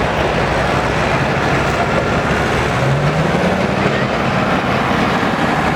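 Duramax diesel engine of a Chevrolet pulling truck running loudly and steadily, its pitch rising a little about three seconds in.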